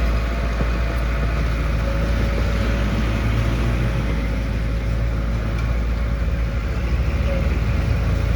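Heavy diesel engine of road-construction machinery running steadily at low revs, with a deep, even rumble.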